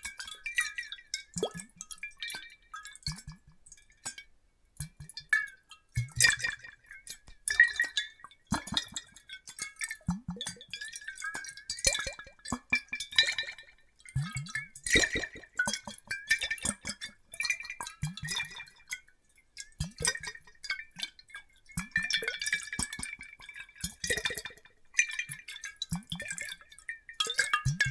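Water sloshing and dripping in glass bottles, with irregular light clinks of glass and a faint glassy ringing.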